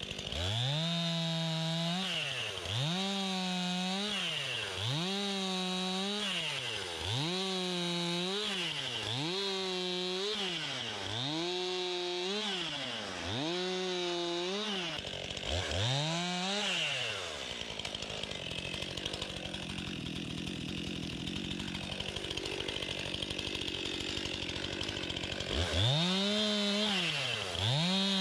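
Stihl MS261 two-stroke chainsaw revved up and let back down over and over, about once every two seconds. For several seconds after the middle the rising and falling tone gives way to a rougher, steadier sound, then the revving starts again near the end.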